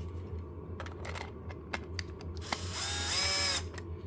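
Small cordless electric screwdriver spinning up and whirring for about a second near the end, backing out the screw of a remote control's battery cover, after a few light handling clicks.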